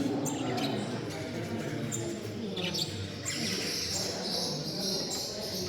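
Many caged finches and other small songbirds chirping and twittering over a low murmur of visitors' voices; the twittering thickens about three seconds in.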